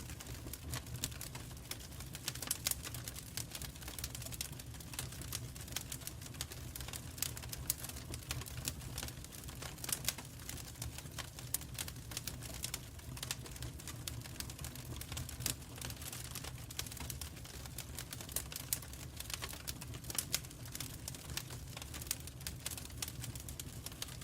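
Wood fire burning in a fireplace, crackling with many irregular snaps and pops over a low, steady rumble of the flames.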